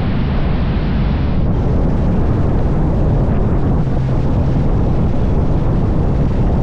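Wind rushing over the microphone on a moving motorcycle, with the bike's engine running steadily underneath.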